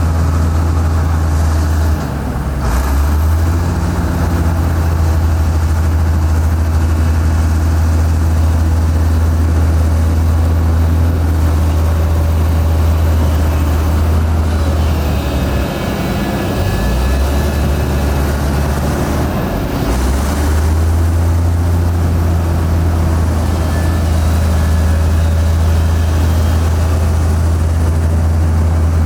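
Heavy diesel engine of earthmoving equipment running steadily, its engine speed shifting briefly about two seconds in, around the middle, and again about two-thirds of the way through.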